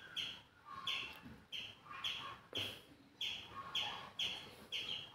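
A small bird chirps over and over, about twice a second, each chirp a short high note that falls slightly.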